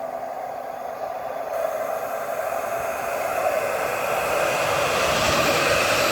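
Alstom Citadis tram approaching and passing, its steady whirring motor and rolling noise growing steadily louder as it nears.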